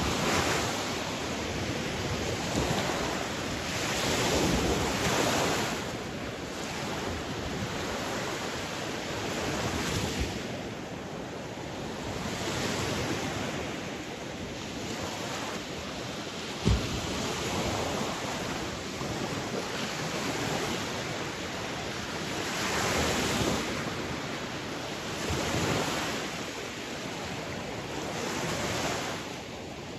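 Sea waves breaking and washing on a shore in a continuous rushing wash that swells every few seconds, with some wind noise on the microphone. One brief sharp knock a little past halfway.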